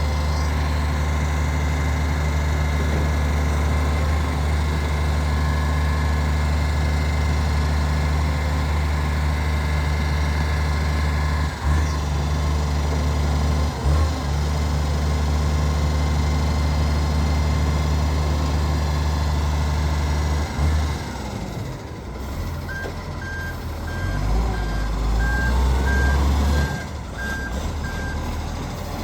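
International Acco garbage truck's diesel engine idling with a steady deep drone, the truck's exhaust leaking, with two short knocks near the middle. About twenty seconds in the engine note drops and changes, and a reversing beeper sounds in an even series of beeps for about six seconds as the truck backs up.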